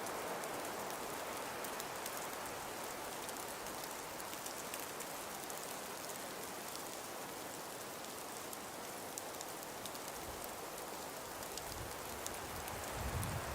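Wind-driven snow falling in a steady hiss, with a dense patter of fine ticks of flakes or pellets striking a surface. A low rumble swells briefly near the end.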